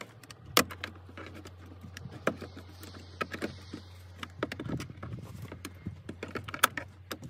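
Flat-head screwdriver prying a plastic interior door panel off an old Toyota 4Runner door: a string of irregular clicks, scrapes and snaps as the panel is worked loose, with the sharpest snaps about half a second in and near the end.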